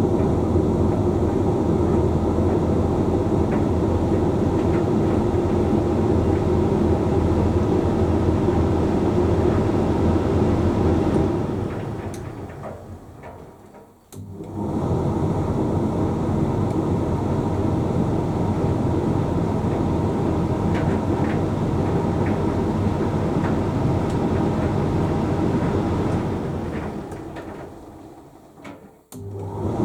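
Hoover Link X Care condenser tumble dryer running mid-cycle with a steady motor and drum hum. The hum winds down and stops about 12 to 14 seconds in and again near the end, each time starting straight back up: the drum pausing and changing direction as it tumbles the load.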